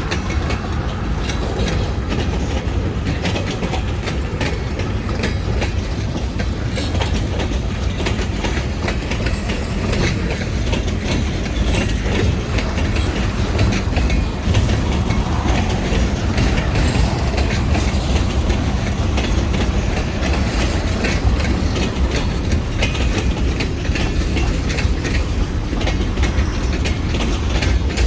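Freight train rolling past, its steel wheels clattering over the rail joints in a steady clickety-clack with a low rumble.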